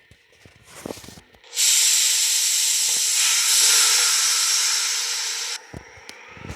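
R62A subway train's air brakes releasing: a loud, steady hiss of about four seconds that starts about a second and a half in and cuts off abruptly. Near the end a faint rising whine begins as the train starts to pull away.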